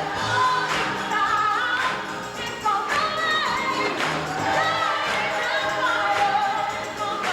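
Gospel choir singing with instrumental accompaniment, with a steady beat of percussion strokes about once a second.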